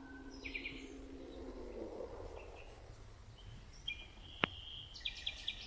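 Small birds chirping in short bursts, several times, over a steady low hum. A single sharp click comes about four and a half seconds in.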